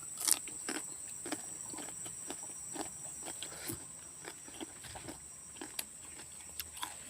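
Close-mouth chewing of crisp half-ripe papaya: irregular crunches and wet clicks, several a second.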